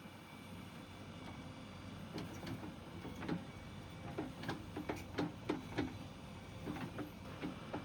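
JCB 3DX backhoe loader's engine running steadily, with a run of about a dozen sharp knocks and clatters from its working gear. The knocks start about two seconds in and are thickest in the middle.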